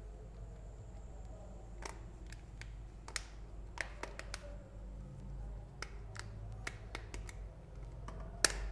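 Irregular sharp clicks and taps, about a dozen, the loudest near the end, from a smartphone being handled and pressed together during reassembly, over a low steady hum.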